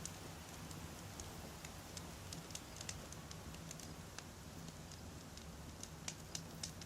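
Wood fire crackling: irregular sharp pops and snaps from burning firewood over a faint, steady low rumble.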